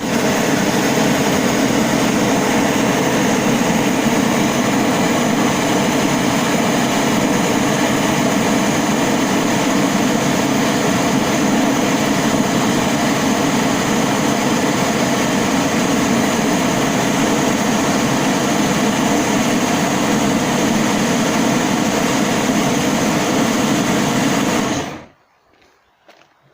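A loud, steady mechanical noise like a running motor, unbroken until it cuts off suddenly near the end.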